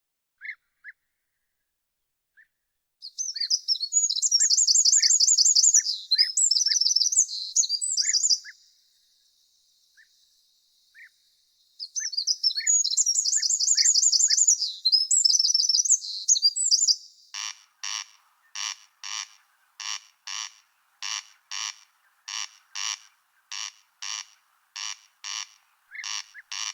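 Songbirds by a river: short high chip calls, and two fast trilling song phrases a few seconds apart. About two-thirds of the way in, a loud, regular rasping call starts, repeating about twice a second.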